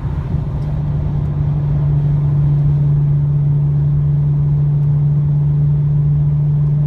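Exhaust of a 2003 Lexus GS300's 3.0-litre inline-six with the muffler deleted, droning steadily at a constant highway cruise, over road and tyre rumble.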